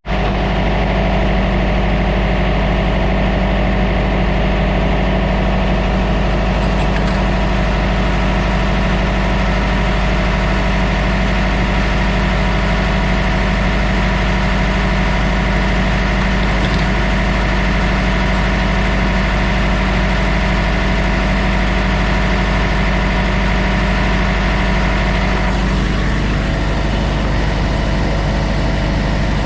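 Heavy road-train truck's Cummins diesel engine running steadily at low revs with an even, unchanging drone. About 26 seconds in, the engine note shifts slightly.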